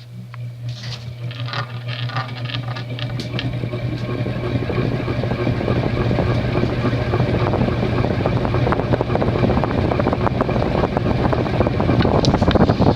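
Emerson Longnose cast-iron oil-bath ceiling fan with 56-inch basswood blades, switched straight to high and spinning up: a steady electrical hum under a rhythmic whoosh of the blades that grows louder over the first five or six seconds, then holds steady. At high speed it gives a cyclic flux buzz, which the owner puts down mainly to the wobble from its worn shaft.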